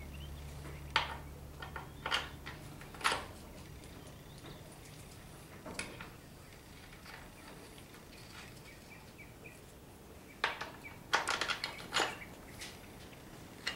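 Scattered clinks and taps of metal nuts, bolts and hand tools being handled while lock nuts are started on a mower gearbox, with a quick run of clinks near the end. A low steady hum stops about two and a half seconds in.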